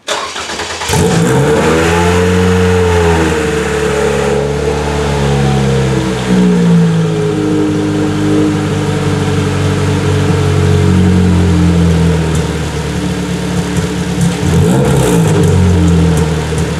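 Toyota 2AR-FXE 2.5-litre inline-four cranking and starting, revving up in the first seconds, then settling to a steady idle, with the engine speed wobbling again near the end. For the first few seconds after start-up the valve train is loud, until the ECU finds the cams and actuates the VVT-i phaser. The owner suspects the second-hand intake cam phaser he fitted on the exhaust cam is damaged.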